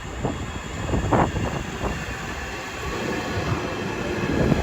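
Southeastern Class 465 Networker electric multiple unit running into the platform to terminate: a steady rumble of wheels on rail, with a short squeal about a second in.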